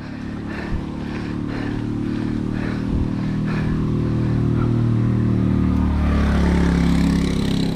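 A motor vehicle's engine approaching on the road, growing steadily louder and loudest near the end.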